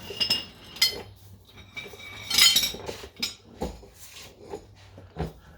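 Metal hand tools clinking and clanking as they are gathered up and moved aside: a string of separate knocks, some with a short metallic ring, the loudest about halfway through.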